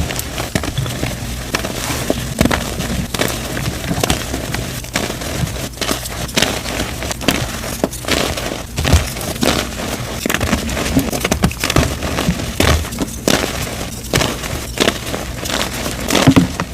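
Dyed gym chalk being crushed and crumbled, a dense run of irregular crunches and crackles.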